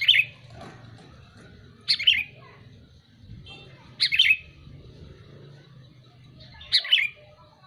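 Sooty-headed bulbul (kutilang) calling: four short, bubbly phrases of quick falling notes, about one every two seconds.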